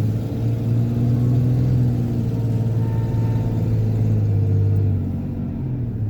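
Pickup truck's engine and tyre noise heard from inside the cab as it drives at speed, a steady low drone that eases off a little near the end.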